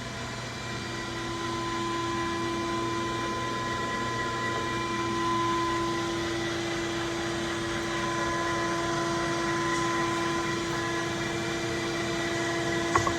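Steady machine hum with a few fixed tones, like a motor or fan running, and a brief click near the end.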